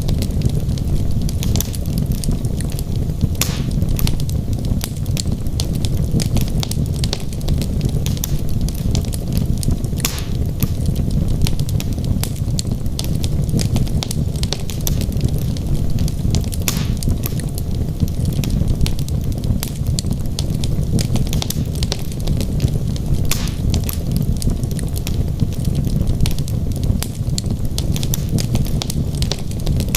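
Wood logs burning in a fireplace: a steady low rumble of the flames with dense crackling throughout, and a few louder pops.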